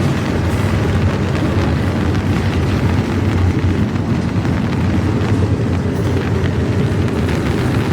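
Long intermodal freight train rolling slowly past, a steady low rumble, with wind buffeting the microphone.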